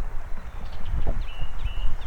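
Birds calling: a run of short, repeated whistled notes, about two a second, over a low uneven rumble.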